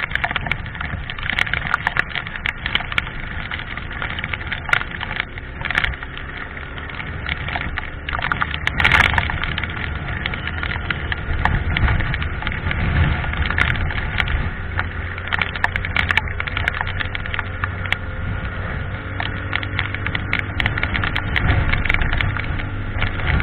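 Motorcycle riding, a low steady engine hum under heavy wind rush and frequent crackles on the microphone, with a brief louder gust about nine seconds in.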